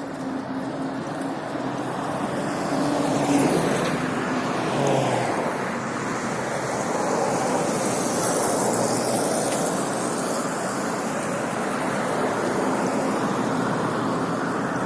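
Road and traffic noise from a moving motorcycle in city traffic: a steady rush of wind and tyres with a low engine hum. It gets louder about three seconds in.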